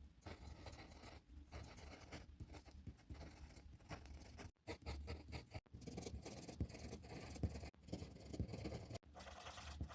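A drawing tool scratching and stroking on paper in quick, irregular strokes, with several abrupt short breaks.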